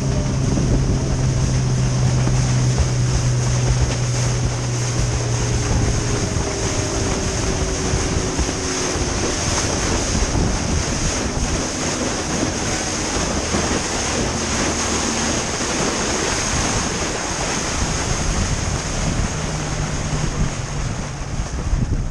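A small boat under way: its engine drones steadily while wind buffets the microphone and water rushes past the hull. After about six seconds the engine's hum sinks into the wind and water noise, and it comes back near the end.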